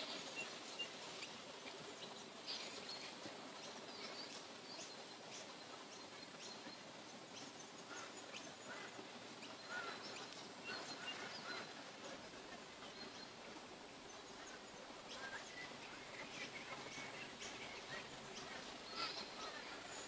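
Wild birds chirping in short, scattered calls over a faint steady forest hiss.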